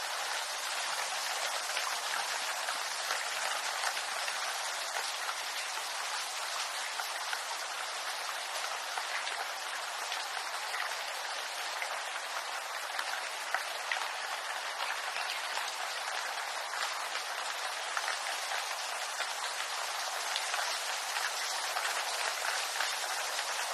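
Steady rain falling on bamboo leaves, a dense hiss of countless small drop patters.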